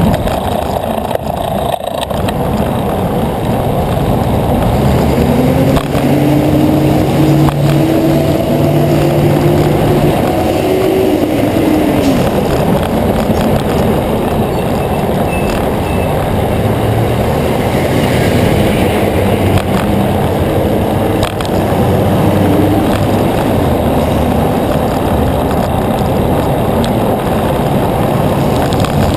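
Wind rushing over the microphone of a moving bicycle, with motor-vehicle traffic passing close by. One engine's pitch rises and falls between about five and twelve seconds in, and another vehicle passes later.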